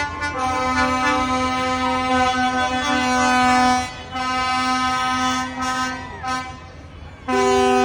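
Vehicle horns on the parading tractors and lorries sounding in long held blasts, several pitches overlapping. The blasts break off about four seconds in and again shortly before the end, when a two-tone blast starts, over a low engine rumble.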